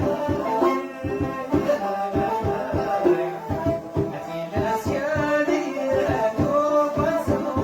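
Moroccan Amazigh (Tashelhit) folk music: a fast, steady hand-drum rhythm under a melodic instrument line, with a singing voice.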